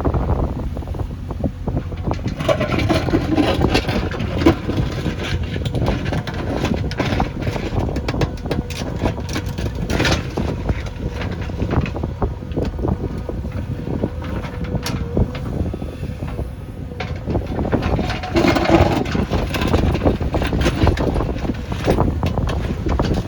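Backhoe loader's diesel engine running steadily, with many short knocks and rattles.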